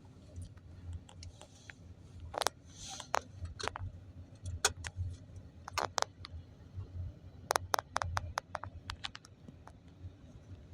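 Air conditioner unit running with a low hum, under scattered sharp clicks and knocks throughout.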